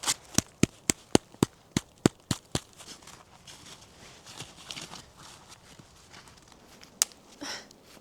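A quick, even run of about ten sharp knocks, about four a second, stopping after two and a half seconds. Soft rustling follows, with a single sharp click near the end and a brief scrape after it.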